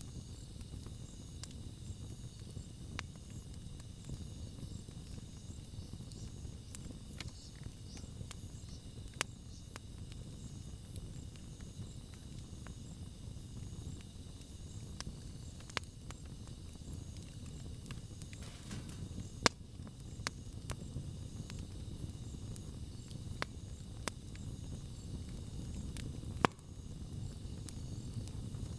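Wood campfire burning with a low, steady rush of flame and scattered sharp crackles and pops; two louder pops stand out, the second about two-thirds of the way in. A faint steady high tone runs underneath.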